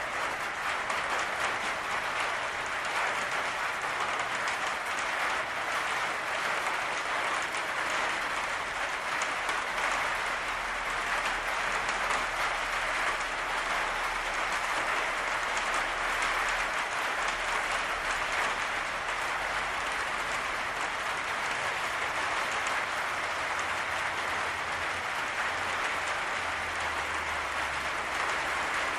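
Steady heavy rain drumming on a patio roof, a dense, even patter of countless drops.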